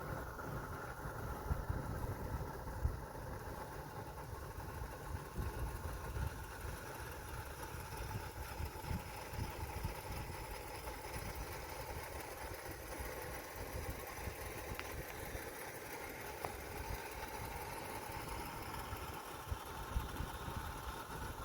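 A vehicle's engine running steadily under a low, uneven rumble, with a few faint knocks.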